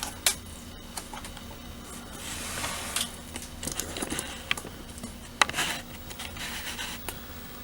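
Handling of a weathering-kit box and its paper instructions: rustling and a few sharp clicks and taps, over a low steady room hum.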